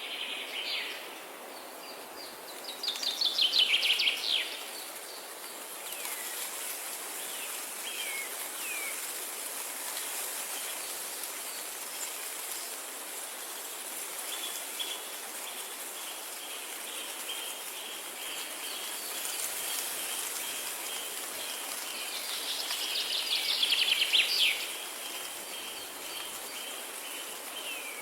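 Songbirds singing over a steady background hiss of natural ambience: two loud, rapid trilling songs, one a few seconds in and one near the end, a few short downward chirps, and a steady high thin trill through the second half.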